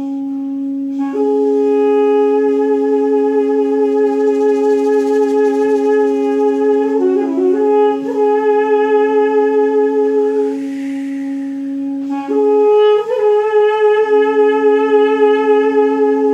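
Balaban and duduk, double-reed woodwinds, playing a slow melody over a steady held drone note. The melody enters about a second in with small trills and turns. The drone drops out briefly about two-thirds of the way through, then returns.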